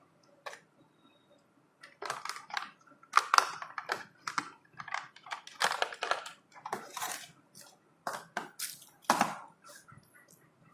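Packaging being handled during an unboxing: irregular short rustling and crackling bursts. It is mostly quiet for the first two seconds, then a steady run of handling noise follows.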